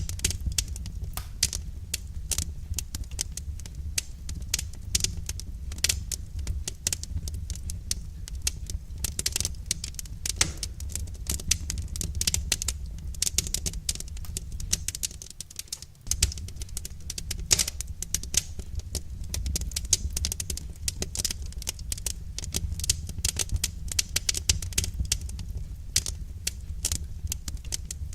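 Wood fire crackling: dense, irregular pops and snaps over a steady low rumble, which drops away briefly about halfway through.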